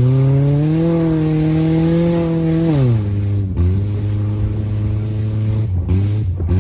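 Engine of a 1995 Mazda fitted with a Ford motor, driven hard: it revs up over the first second and holds high, drops off about three seconds in, then runs steadier with a couple of brief dips near the end.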